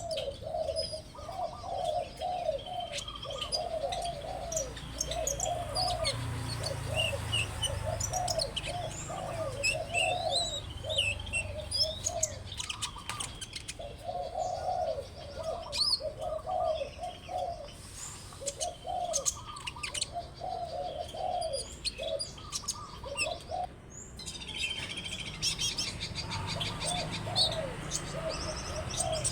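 Birdsong: a low call repeated in short rhythmic phrases through most of the stretch, pausing briefly a few times, with high chirps and quick trills scattered over it.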